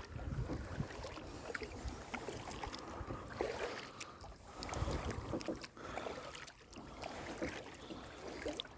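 Kayak paddling: the paddle dipping and splashing in the water, with scattered light knocks and drips. Wind buffets the microphone near the start and again about halfway through.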